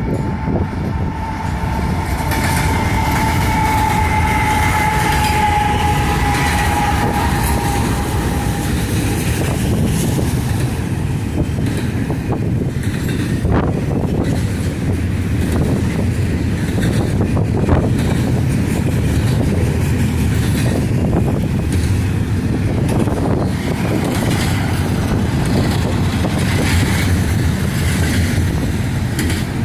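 Union Pacific intermodal freight train running at speed, heard from a vehicle pacing it, with a dense steady rumble and rush mixed with wind. For the first eight or nine seconds a high steady tone sounds over it and drifts slightly lower; a few sharp clicks come later.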